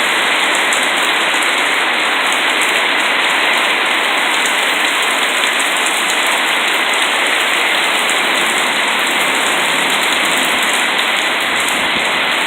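Heavy rain pouring down, a loud, steady, even hiss of a downpour pelting everything.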